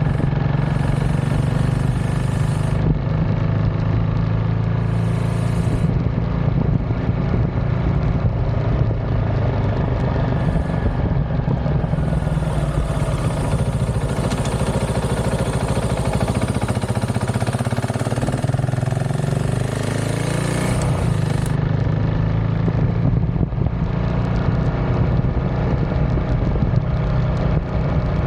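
KTM 690 SMC R single-cylinder engine running through an aftermarket DVR exhaust under way, a steady note. About two-thirds of the way through it drops off and then revs back up.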